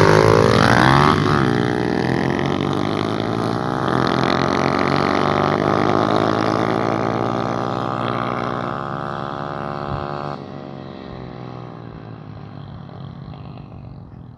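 125cc motorcycle engine buzzing, revved a little near the start, then running on with its pitch slowly sinking as it fades away, dropping off sharply about ten seconds in.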